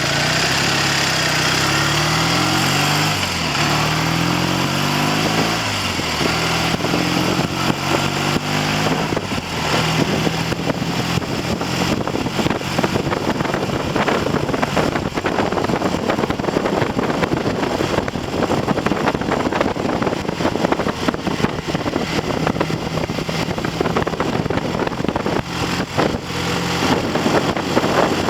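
Triumph TR6 650 cc parallel-twin motorcycle engine, freshly rebuilt and being run in, pulling away with its revs climbing and dropping twice as it shifts up. From about nine seconds in, heavy wind buffeting on the microphone covers a steady engine note at cruising speed.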